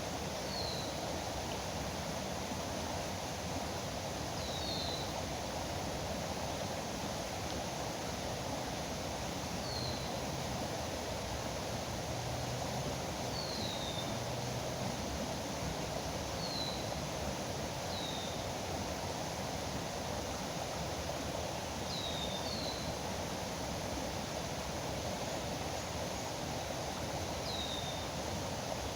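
Steady rush of river water, with a bird giving a short, high, downslurred call about nine times, every few seconds.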